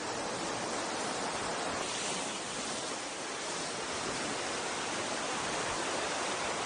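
Sea surf washing against a lava shore: a steady rushing hiss that swells slightly a couple of seconds in.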